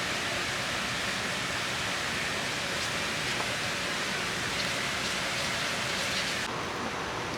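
Steady rain falling, an even hiss with scattered faint drop ticks. About six and a half seconds in the sound changes abruptly to a duller hiss with less treble.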